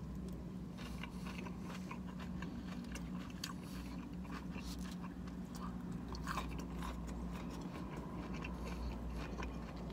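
A man chewing a mouthful of KFC coleslaw, with faint, irregular crunches and small wet clicks of the shredded cabbage. A steady low hum runs underneath.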